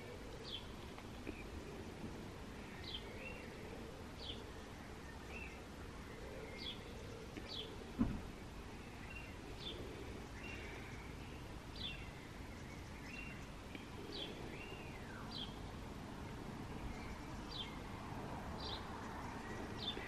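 Faint birdsong: short high chirps repeating about once a second over a low background hum, with a single knock about eight seconds in.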